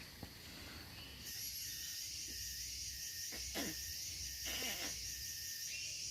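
Rainforest insects droning in a steady high-pitched chorus, which starts about a second in, with a few short calls falling in pitch over it.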